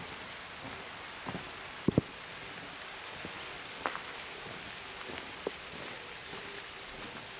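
Quiet street ambience: a steady hiss with a few scattered sharp taps, the loudest a quick pair about two seconds in.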